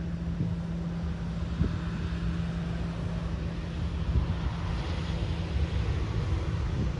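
Jet airliner engine noise at a distance: a steady low rumble with a faint steady hum, swelling a little about four seconds in.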